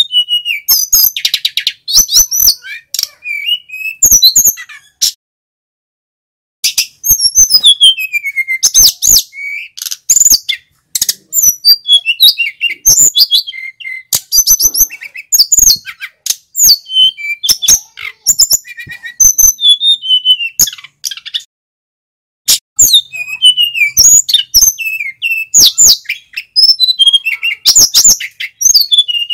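A male sikatan gunung flycatcher singing loudly. It gives long runs of rapid chirps, trills and sliding whistled notes, broken twice by pauses of about a second and a half.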